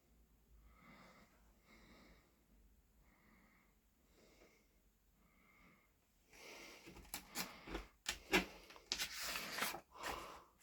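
Paper rustling and crackling, in short bursts, as guidebook pages are handled and turned; before it, several seconds of near silence with faint soft breaths.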